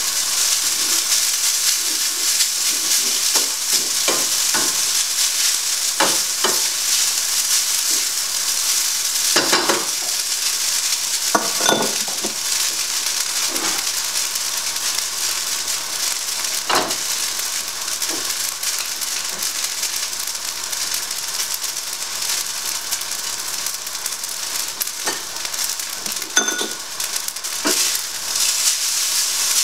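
Chicken strips, pak choi and bamboo shoots sizzling steadily in a hot frying pan, turned over with tongs that knock against the pan every few seconds.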